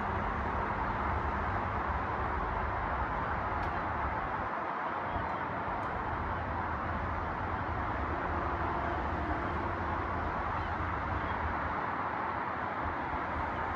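Steady din of a large flock of birds calling all at once, a continuous wash of overlapping calls with no single call standing out, over a low rumble.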